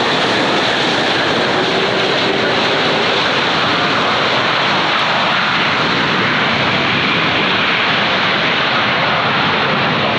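Jet airliner engines heard passing, a loud steady rushing noise with faint whining tones over it.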